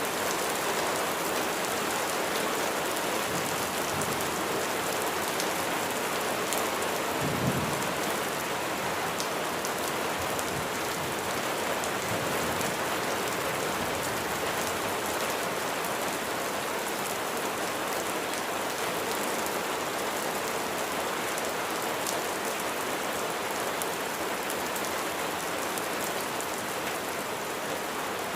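Steady heavy rain falling, an even hiss of many drops, with a brief low rumble of distant thunder about a quarter of the way in.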